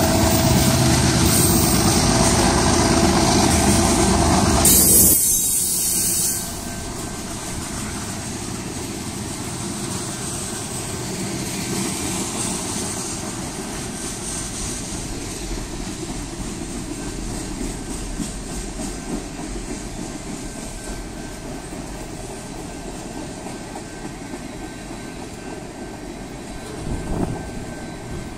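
Freight train of tank cars and covered hopper cars rolling past, its wheels running on the rails. It is louder for the first six seconds or so, with a brief rush of noise about five seconds in, then settles to a steadier, quieter rolling sound.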